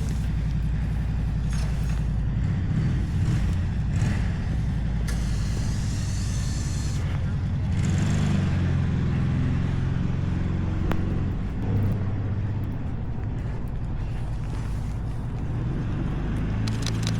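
A motor vehicle's engine runs steadily close by, its pitch shifting slightly. Near the end comes a fast run of sharp clicks.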